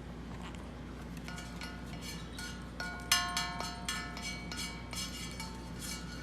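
Small metal bells or chimes struck over and over in quick, irregular succession, ringing at several different pitches, with the loudest strike about three seconds in.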